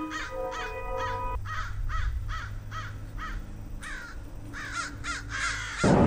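A bird calling over and over, about two to three calls a second, each call rising and falling in pitch, over a low rumble. Background music with held notes plays under it and stops about a second and a half in.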